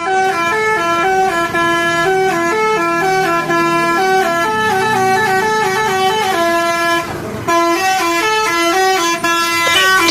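Basuri telolet bus horn playing a tune of quick stepped notes, with a short break about seven seconds in.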